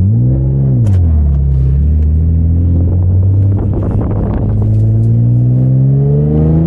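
Twin-turbocharged Infiniti G37's V6 engine: a quick rev up and back down near the start, then running steady and climbing slowly in pitch as the car accelerates.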